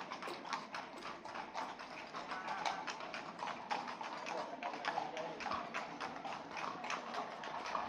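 Rapid, irregular clicking and tapping, several sharp clicks a second.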